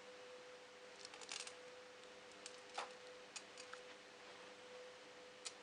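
Faint scattered clicks and taps from handling the ZX Spectrum+ case and keyboard parts during a keyboard membrane replacement: a quick cluster about a second in, a firmer tap near the middle, then a few light ticks. A steady faint hum sits underneath.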